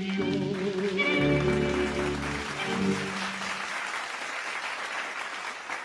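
A dance orchestra's tune ends on held chords about three seconds in. Audience applause starts under the final bars and carries on after the music stops.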